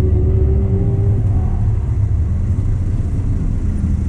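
Car engine running steadily at low revs, heard from inside the cabin.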